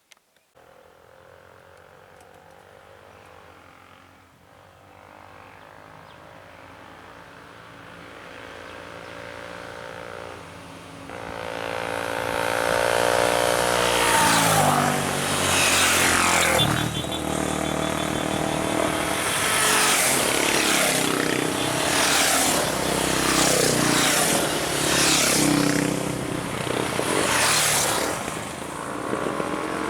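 Motor vehicle engines approaching and growing steadily louder, then running loud with the pitch repeatedly rising and falling as they rev and pass.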